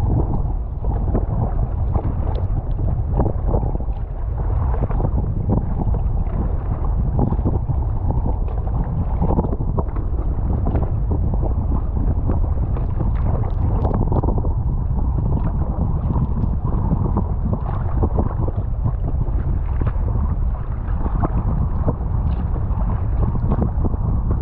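Wind buffeting the microphone in a steady low rumble, with choppy water splashing and slapping against a kayak in many short bursts.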